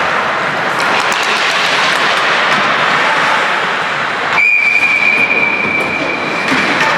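Steady ice-rink noise with a few sharp clacks, then, about four and a half seconds in, a single long, high, steady whistle blast lasting about two and a half seconds, typical of a referee's whistle stopping play in ice hockey.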